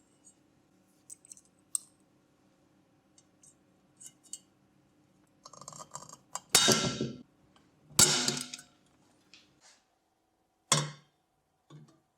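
Small clicks and clinks of hard parts being handled, with two louder rattling scrapes about six and a half and eight seconds in and a couple of short knocks near the end.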